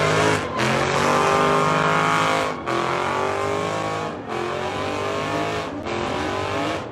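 Dodge Scat Pack's 392 Hemi V8 revving hard in four runs, each climbing in pitch and breaking off sharply.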